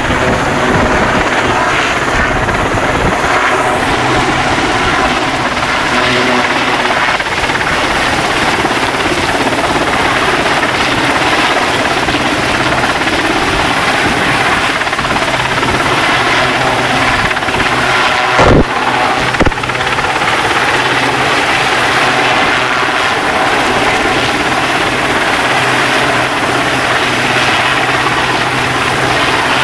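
Rescue helicopter's rotor and turbine running loudly and steadily overhead during an airlift. Two brief thumps come about two-thirds of the way through.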